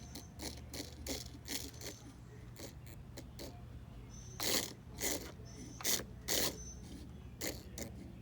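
A run of short, irregular clicks and scrapes over a low steady hum, with four louder ones bunched together in the middle.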